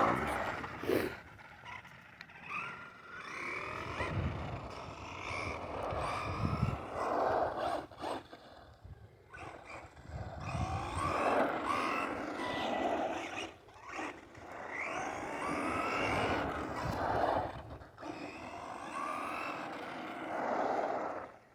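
Arrma Vorteks 2WD brushless RC truck being driven in repeated bursts of throttle, its motor whine rising and falling with each run.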